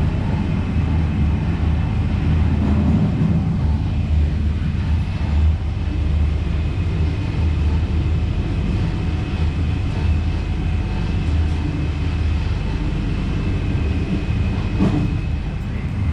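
Loco-hauled Trenitalia Intercity train running on the rails: a steady low rumble with a faint steady high whine, and a single knock near the end.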